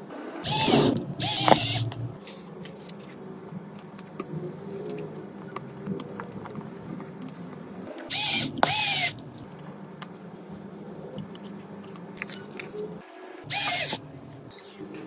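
A small power tool run in short bursts, four times, each about half a second to a second long, with its pitch gliding as the motor spins up and down; light clicks between the bursts.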